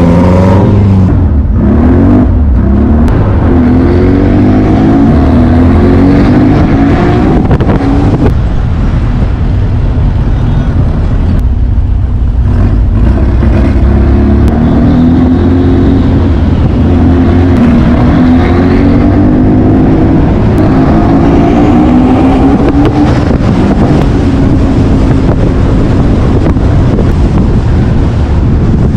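Turbocharged VW Beetle 1600 air-cooled flat-four engine running under load while driving, revving up and easing off several times.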